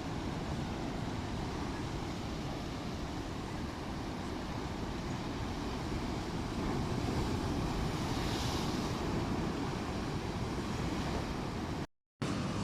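Rough sea: waves and strong wind buffeting the microphone, a steady dense rushing noise, broken by a split-second dropout near the end.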